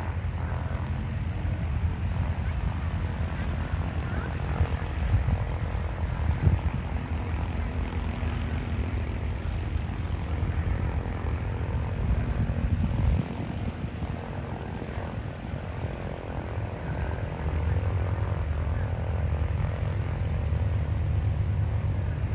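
Avro Lancaster's four Rolls-Royce Merlin V12 piston engines running at low power as the bomber taxis, a deep steady propeller drone. It dips a little about halfway through and builds again a few seconds later.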